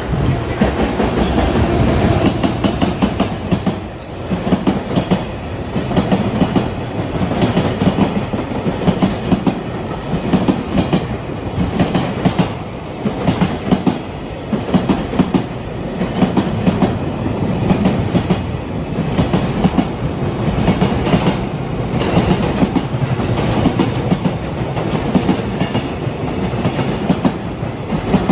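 A JR Freight container train, an EF210 electric locomotive hauling 22 Koki container wagons, passing through a station. Its wheels clack over the rail joints in clusters about every two seconds, over a steady rolling rumble.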